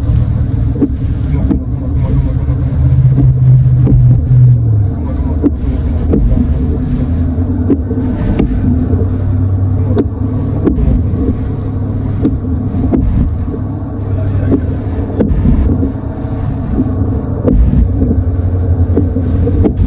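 Pickup truck engine and road rumble heard from inside the cab while driving, a steady low drone with scattered light ticks. A humming engine tone that has held for a couple of seconds drops in pitch about five seconds in.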